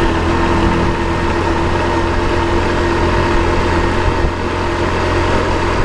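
Motor vehicle engine running steadily, a low drone with a steady humming tone over it.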